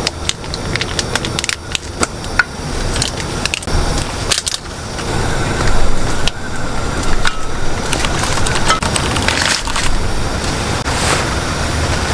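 Firewood cracking and snapping: many irregular sharp cracks over a steady hiss.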